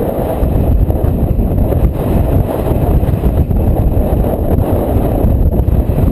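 Strong Bora wind buffeting the microphone: a loud, continuous low rumble that swells and dips with the gusts.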